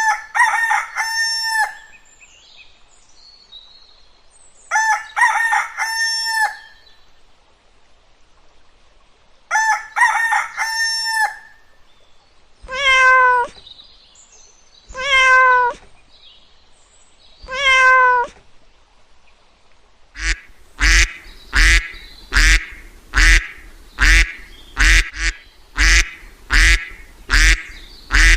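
A series of animal calls: three long multi-part calls about five seconds apart, then three single drawn-out calls, then a quick run of about a dozen short calls, roughly one every 0.7 seconds.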